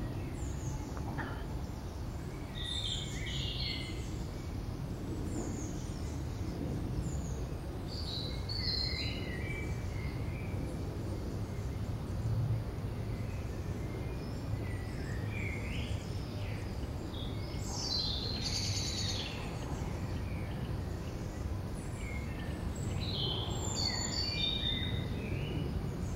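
Small birds chirping and singing in short scattered bursts, several times, over a steady low background rumble.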